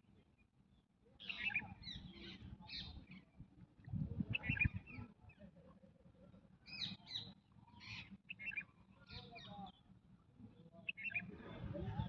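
Short bursts of bird calls repeated several times, over low rustling and bumping from handling close to the microphone.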